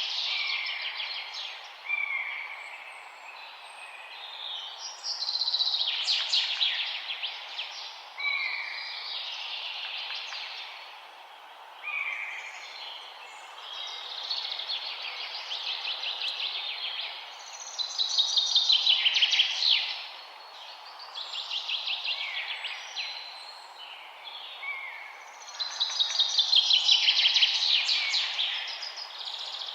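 Forest songbirds singing, one phrase every few seconds, each a short curved note followed by a rapid trill. The loudest phrases come about two-thirds of the way in and near the end. A steady hiss runs underneath.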